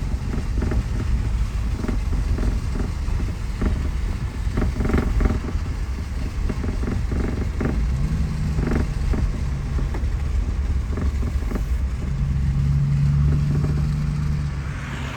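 Car driving on wet, flooded streets, heard from inside the cabin: a steady low rumble of engine and tyres with a steady hum at times, and a rising hiss near the end.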